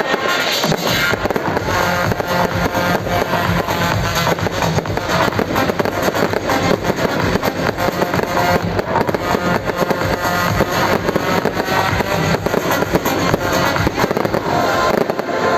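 Fireworks going off in dense, rapid succession, many crackles and pops close together, with music playing alongside.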